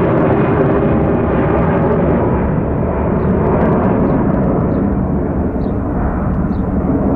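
Airbus A321-200 jet engines at takeoff power, a loud steady roar that slowly dulls as the airliner climbs away.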